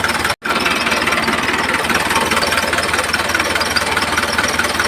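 Small engine running steadily with a fast, even knocking beat; the sound drops out for an instant about half a second in.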